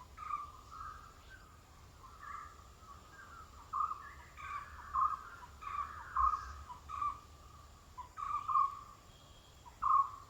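Birds calling in a tree grove: many short, repeated calls, some overlapping, coming every half second or so.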